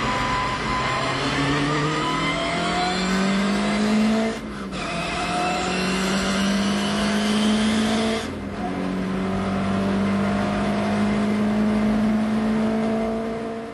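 Lotus Cortina's twin-cam four-cylinder engine under hard acceleration, heard from inside the cabin. Its pitch climbs, dips briefly twice, about four and eight seconds in, as it changes up a gear, then holds at high revs.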